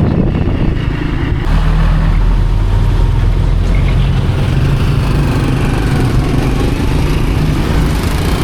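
Ride-hail vehicle running on the road, heard from on board: a steady low engine and road rumble that steps up about a second and a half in.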